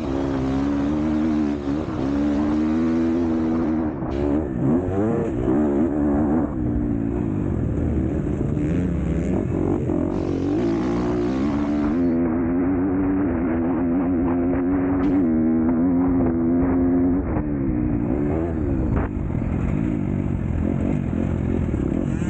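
MX2 motocross bike engine at race speed, its note rising and falling constantly as the throttle is worked, with a few sharp knocks and clatter from the bike.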